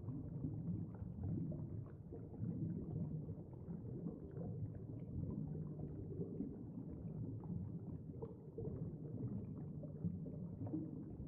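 Faint, low underwater rumble with a soft, watery churning.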